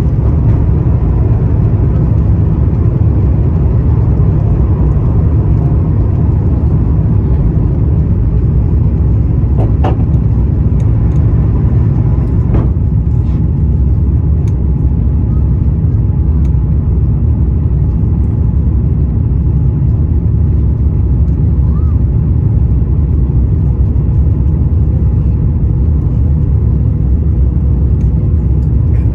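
Steady, loud cabin noise inside an Airbus A350-900: the deep rumble of its Rolls-Royce Trent XWB engines and airflow over the fuselage, heard from a window seat during the climb after takeoff.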